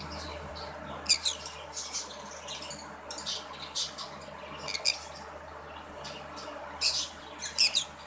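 Birds in an aviary chirping: short, high-pitched chirps in scattered clusters, loudest about a second in and again near the end, over a steady low hum.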